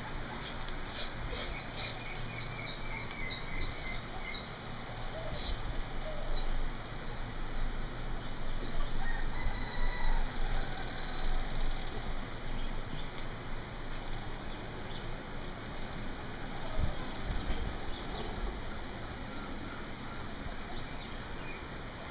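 Small birds chirping in the background: many short, high, downward-sliding chirps scattered through, over a steady hiss.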